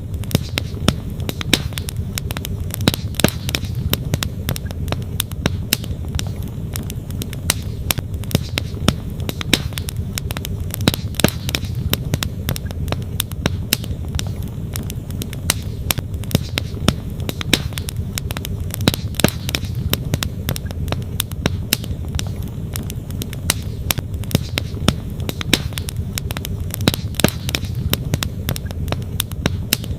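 Wood campfire crackling, with frequent sharp irregular pops, over the steady rush of a flowing stream.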